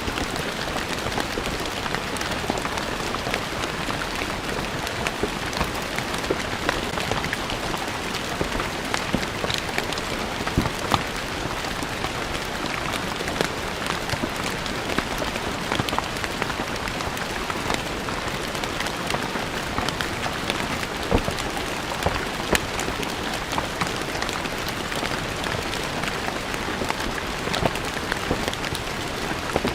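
Steady rain falling on a stone surface: an even patter, with individual drops splashing sharply throughout.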